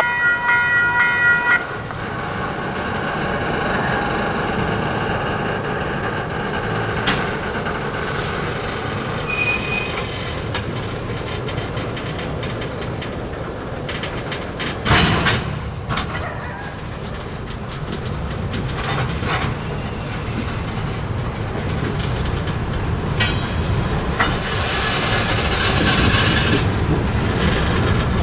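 Freight train rolling by on the rails: a steady rumble of cars with scattered wheel clacks and a sharp bang about halfway through. A multi-tone locomotive horn cuts off about a second and a half in, and a high hiss or squeal rises near the end.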